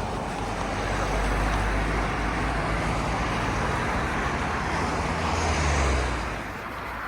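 Road traffic passing close by: a steady rush of tyre and engine noise that swells as vehicles go past, loudest about six seconds in, then dying away.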